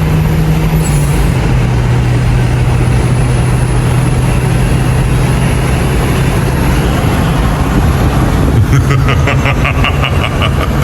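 Car engine humming at a steady pitch under heavy road and wind noise, as from a car at speed; the engine note drops a little about a second in. A rapid run of ticks comes in near the end.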